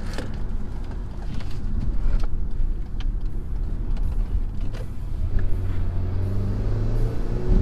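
Road and engine noise inside the cabin of a 2013 Hyundai Veloster Turbo as it drives, its freshly swapped-in 1.6-litre turbocharged four-cylinder running under load. About five seconds in, a steady engine hum rises clearly above the rumble.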